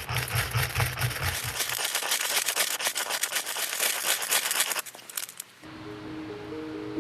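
Dense crackling and rustling of dry tinder, which breaks off about five seconds in. Soft music notes follow.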